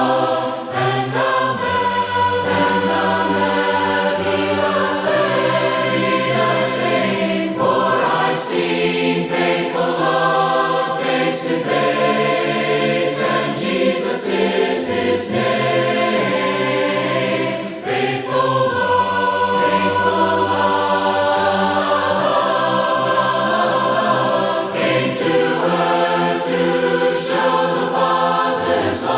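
A choir singing a hymn in several-part harmony, with long held chords.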